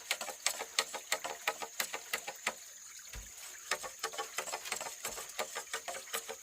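Steady high-pitched drone of insects with a run of quick, irregular light clicks and taps over it.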